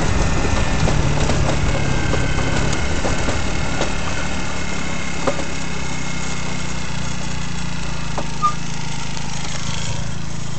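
GY6 scooter's single-cylinder four-stroke engine idling steadily, with a couple of brief clicks about five and eight and a half seconds in.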